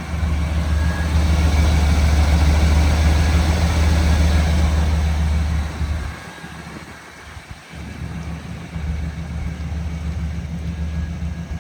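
The gasoline engine of a 1989 Chevrolet 3500 Cheyenne bucket truck idling with a steady low hum. About six seconds in the hum fades for roughly two to three seconds, then comes back.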